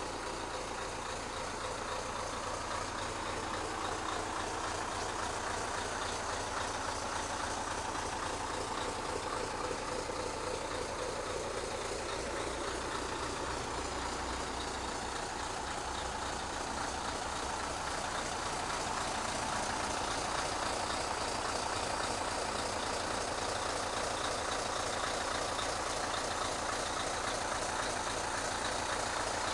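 Scania R143's 14-litre V8 diesel engine running steadily at a low, idle-like speed, growing slightly louder over the second half.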